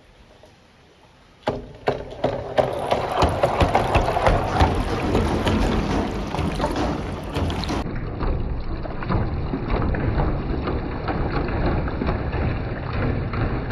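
Glass marbles rolling and clattering along a handmade marble run with water rushing through it, starting suddenly about a second and a half in as a dense stream of small clicks.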